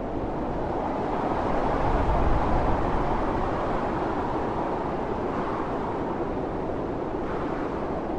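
Strong blizzard wind blowing steadily with a deep rumble, swelling in gusts, louder about two seconds in.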